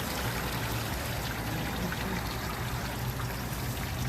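Old green coolant pouring and splashing steadily out of a radiator through its disconnected lower hose as the cooling system drains, with a low steady hum underneath.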